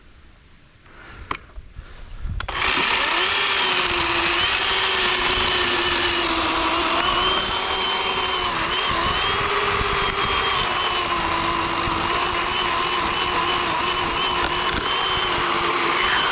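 Worx WG384.9 40-volt cordless electric chainsaw, fitted with an 18-inch Oregon bar, starting about two and a half seconds in and running steadily with a high whine. Its pitch sags slightly now and then as it cuts through a downed log.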